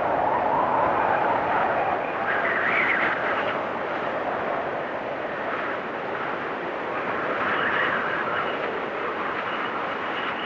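Blizzard wind blowing steadily, swelling in gusts, with a higher whistling rise about three seconds in and again near eight seconds.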